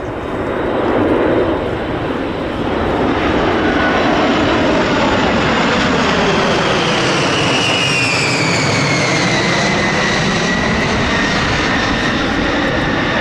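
Jet aircraft passing by: loud, steady engine noise with a high turbofan whine that falls in pitch as it goes past, about seven to ten seconds in.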